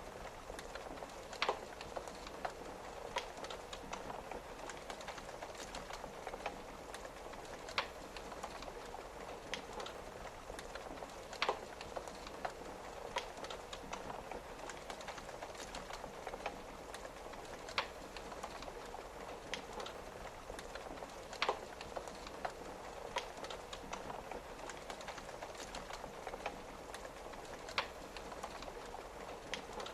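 A wood fire crackling with irregular sharp pops, a louder one every few seconds, over a steady patter of rain on a window.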